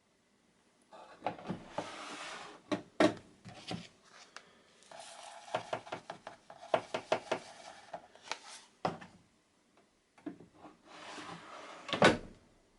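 Handling of a Bosch Maxx washing machine: clicks, knocks and rubbing, like its door or detergent drawer being worked, in three bouts with a sharp knock near the end.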